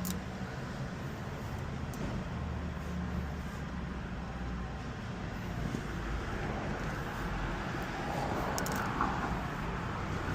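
Steady car engine and road rumble heard from inside a moving car, with a sharp click at the start and a few brief clicks near the end.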